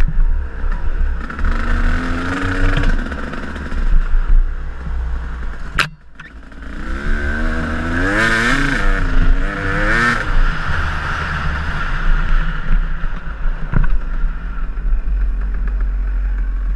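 KTM enduro dirt bike engine riding along a trail, revving up and down with strong wind rumble on the microphone. There is a sharp click about six seconds in and a brief drop in level before the engine picks up again.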